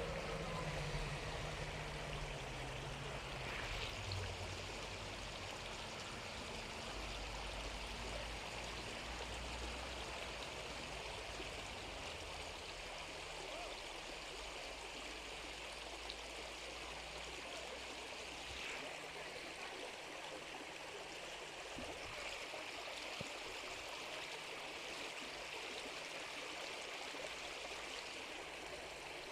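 River water rushing and babbling in a steady flow.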